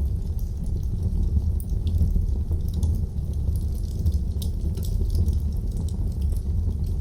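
Wood fire burning in a fireplace: frequent small irregular crackles and pops over a steady low rumble of the flames.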